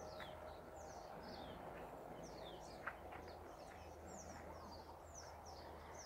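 Small birds chirping faintly in forest: short, high, falling notes repeated every half-second or so over a quiet steady background, with one soft click about halfway through.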